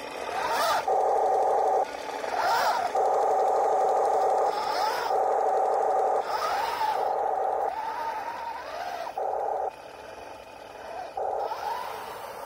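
1:16 RC M26 Pershing tank being driven on test. Its sound unit's engine noise plays through a small speaker and cuts in and out in blocks every second or two, with the electric drive motors whining up and down in pitch and a few sharp clicks.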